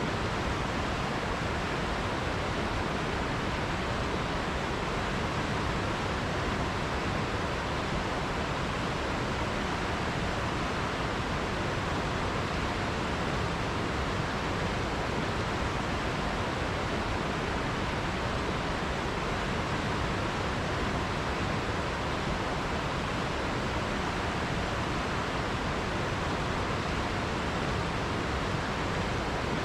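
River water flowing over rocks, a steady even rush with no breaks or other events.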